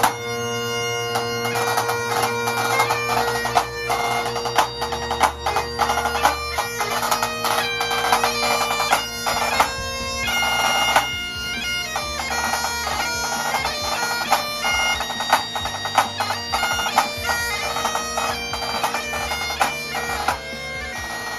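Bagpipe music: a steady drone held under a quick, ornamented chanter melody, over a low bass line. The drone drops out shortly before the end.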